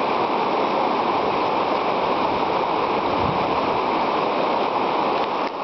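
River rapids: whitewater rushing steadily and loudly.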